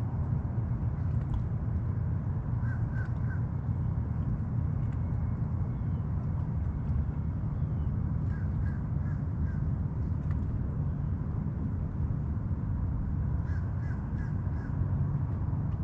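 A crow caws in three short runs of three to five calls each, near the start, the middle and the end. A steady low rumble runs underneath and is louder than the calls.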